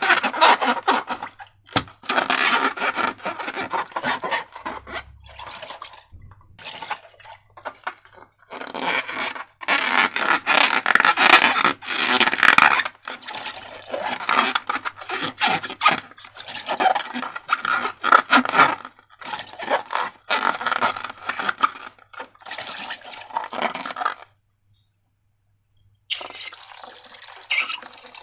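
Slime being handled and worked: repeated wet squelching and scraping in irregular bursts that stop about 24 seconds in. After a short pause, a fainter, steadier rushing sound like running water begins near the end.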